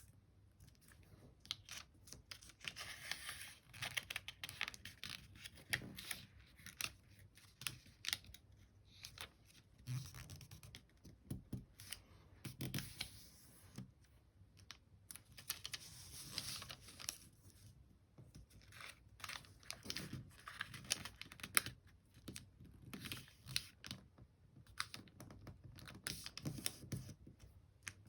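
A sheet of paper being folded and creased by hand: irregular rustling as it is turned and slid, with many sharp little clicks and taps as the folds are pressed flat.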